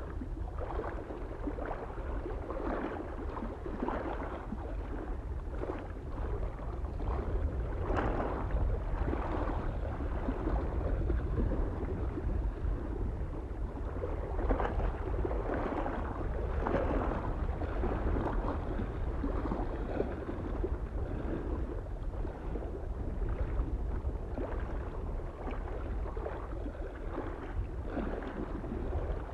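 Small lake waves lapping and splashing irregularly against the shore, with a steady low rumble of soft wind underneath.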